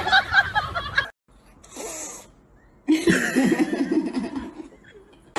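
People laughing, in two bouts: one dying away about a second in, another from about three seconds in until shortly before the end.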